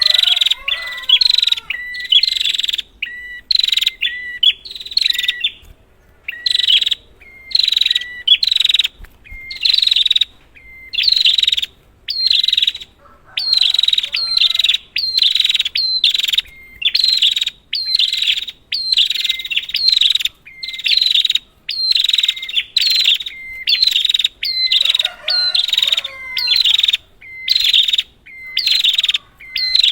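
Prinia (prenjak) calling in quick chattering bursts, about one a second, each led by a short steadier note: a lure call played to get a prenjak that has stopped singing to start.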